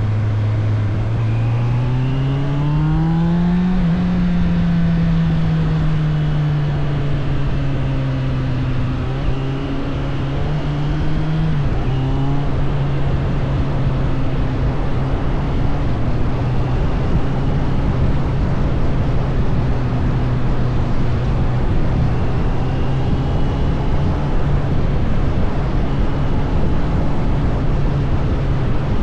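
Suzuki GSF 600 Bandit's air/oil-cooled inline-four engine under way. Its revs climb over the first few seconds, ease off slowly, drop sharply at a gear change about twelve seconds in, then hold steady at cruising speed.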